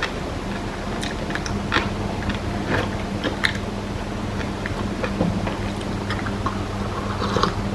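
A person chewing and biting kimbap with kimchi, with many small irregular mouth clicks. A steady low hum runs underneath from about half a second in.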